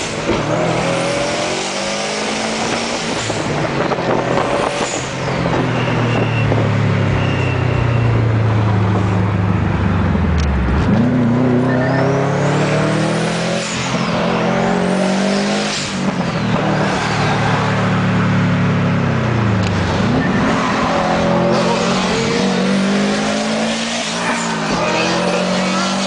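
2004 Subaru Impreza WRX STI's turbocharged flat-four engine accelerating hard through the gears. Its pitch climbs steadily, then drops sharply at each of several upshifts.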